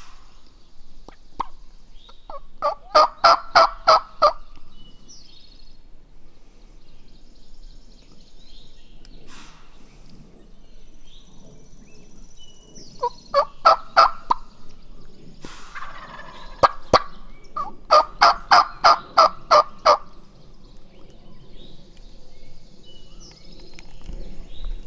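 Turkey yelping in three loud series of about five to eight evenly spaced notes, a few seconds apart, with small songbirds chirping faintly between them.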